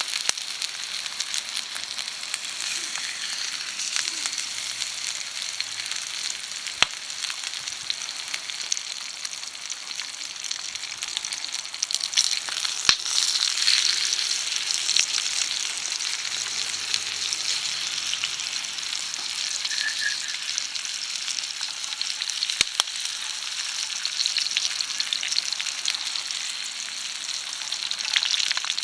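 Food frying in a carbon steel skillet over a campfire: a steady high sizzle, with a few sharp pops along the way.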